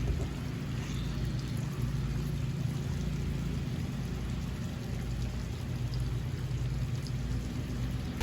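Steady low rushing noise of a heavy rainstorm, with no breaks or single impacts.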